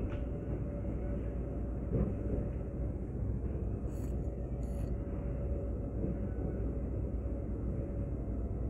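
Steady low rumble of a train running slowly, heard from inside the passenger car, with a faint steady hum and a single knock from the wheels about two seconds in.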